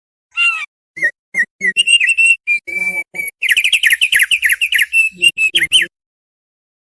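Thick-billed heleia (opior paruh tebal) singing: a phrase of quick, varied whistled notes that breaks into a dense, rapid run of chattering notes about halfway through, then stops abruptly.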